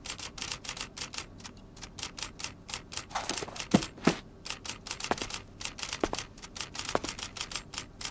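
A fast run of light clicks, several a second, with a few louder sharp knocks about halfway through.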